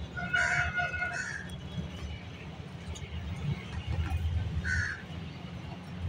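Bird calls: a drawn-out, pitched call about half a second in lasting roughly a second, and a shorter call near the end, over a steady low rumble.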